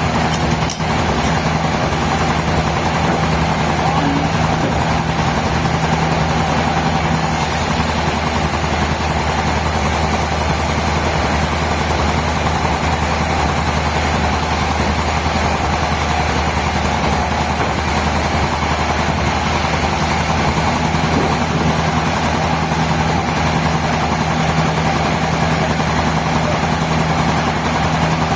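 Sawmill machinery running with a steady low hum. A higher hiss joins about seven seconds in and drops away again about nineteen seconds in.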